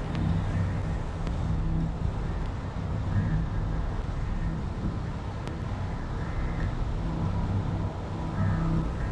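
Steady low rumble of a motor vehicle driving, engine and road noise.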